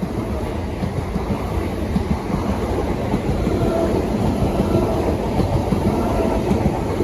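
A pair of Class 387 electric multiple units running past: a loud, steady rumble of wheels on the rails.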